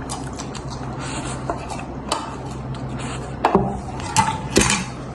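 Spoons clinking and scraping against dishes: scattered light clicks and knocks, the loudest a few close together near the end, over a steady low hum.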